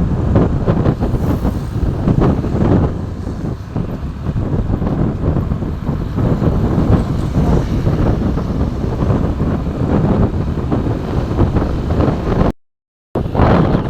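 Vehicle road noise with heavy wind buffeting the microphone, a steady rumble that cuts out briefly near the end.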